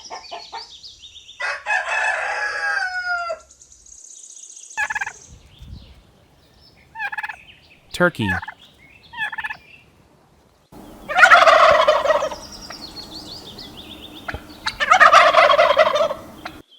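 A rooster crows once about a second and a half in, with a few short fowl calls after it. Later, turkeys gobble twice, each gobble about a second and a half long.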